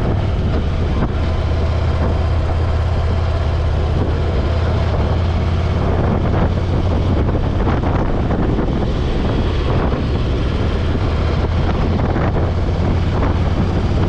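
Motorcycle engine running steadily at cruising speed, with wind noise on the microphone over a strong, even low drone.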